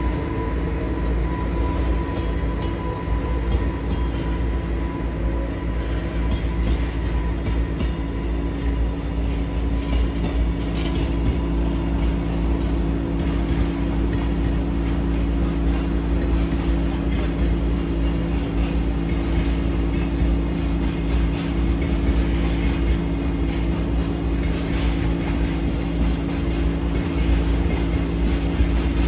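Container flat wagons of a long freight train rolling steadily past, a continuous rumble of wheels on rail with scattered clacks over the rail joints.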